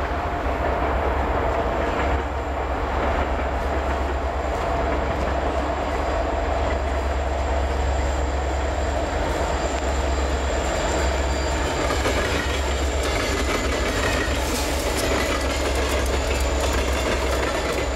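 Freight train pulled by diesel locomotives, a Union Pacific SD60M and a Rio Grande GP60, approaching and rolling past with a steady heavy rumble. Wheel clicks over the rail joints come more often in the second half.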